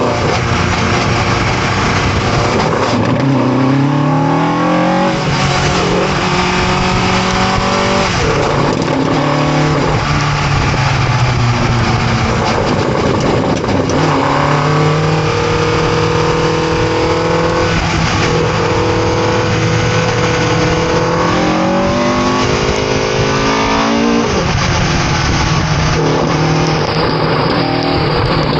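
Ford Cortina race car engine accelerating hard through the gears. Its pitch climbs and drops sharply at each upshift, again and again, over a constant rush of noise.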